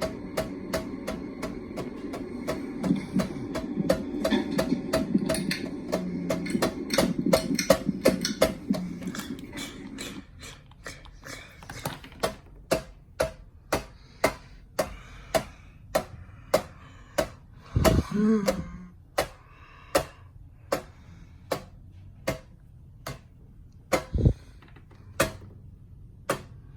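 Ceiling fan ticking once per turn as it slows, the clicks easing from about three a second to about one a second. A low whirring hum under the clicks stops suddenly about ten seconds in, and a short grunt-like sound comes near the end.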